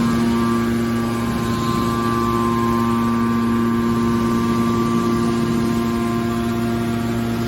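Hydraulic scrap metal baler shear running steadily: an even machine hum with a higher whine held at a constant pitch.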